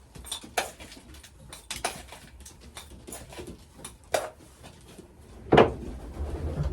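Pigeon loft at feeding time: scattered light clicks and clinks of grain and feeders among the racing pigeons, with one louder burst about five and a half seconds in.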